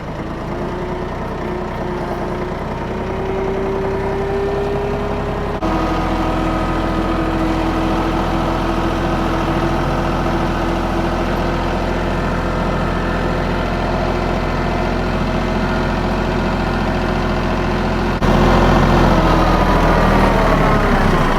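Bad Boy 4025H compact tractor's diesel engine running under load while towing. Its note climbs over the first few seconds, then runs steady, with abrupt jumps in loudness about five seconds in and again near the end.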